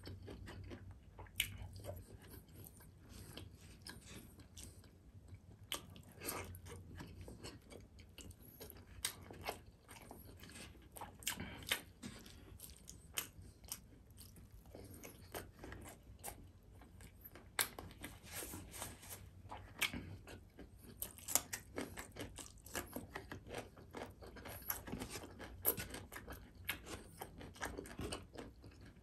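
A man chewing mouthfuls of rice and beef rendang close to the microphone, with many irregular short clicks and crunches.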